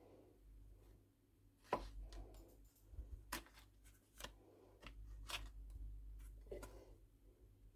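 Quiet kitchen handling: a few separate light knocks and clicks, a second or two apart, over a faint low hum.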